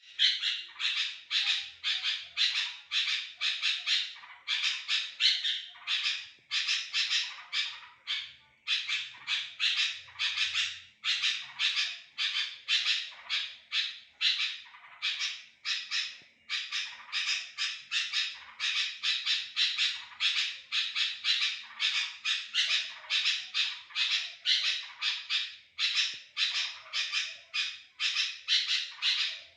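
Sooty-headed bulbul (kutilang) singing incessantly, in full 'gacor' form: rapid runs of notes, about three a second, broken only by short pauses.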